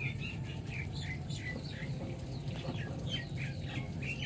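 Small birds chirping repeatedly, many short, quick falling notes, over a low steady background hum.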